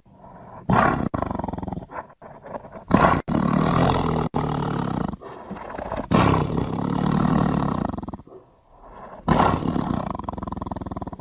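Tiger roaring, about four loud roars one after another, each a second or two long, joined by abrupt cuts.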